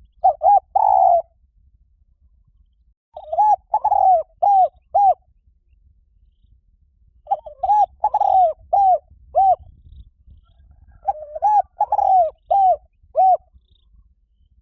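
Spotted dove cooing: four phrases of short, arching coos, each a second or two long and a few seconds apart.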